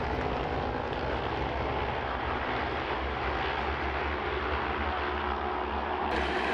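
Racing motorcycle engines running hard on track, a steady drone with no breaks.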